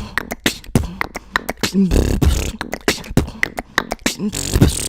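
Human beatboxing: a fast run of percussive mouth sounds, with a held low tone about two seconds in.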